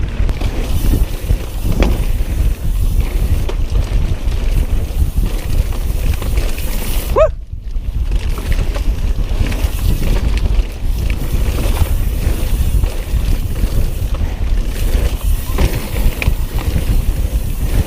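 Mountain bike riding down a dirt trail, heard as steady wind rushing on the camera microphone with the rumble and rattle of the bike over the ground. A brief rising tone comes about seven seconds in.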